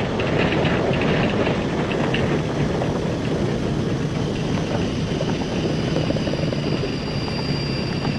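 A vehicle's engine running steadily with road noise, and a faint thin high whine joining in about halfway through.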